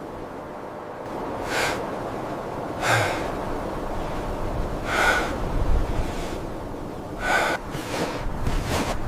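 Four short, forceful breaths, spaced one to two seconds apart, over a steady background hiss.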